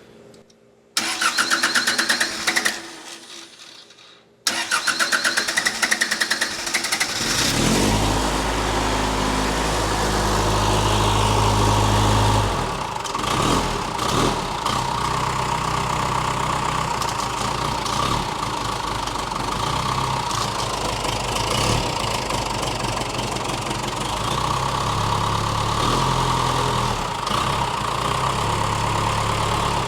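Case 1840 skid steer's diesel engine being cranked by the starter twice, catching on the second try about seven seconds in. It runs fast for a few seconds, then drops back and settles into a steady idle.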